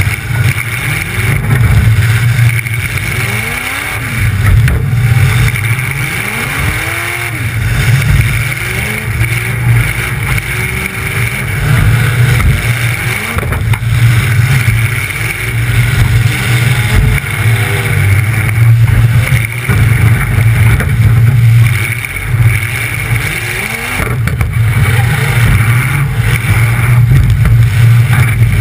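Demolition derby car's engine running loud through short upright open exhaust pipes, revving up and down repeatedly as the car manoeuvres. A sharp knock about halfway through, as another car is up against it.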